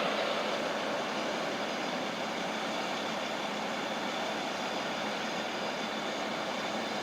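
Steady running noise of a Union Pacific truck on the rail line, easing slightly in the first second and then holding even.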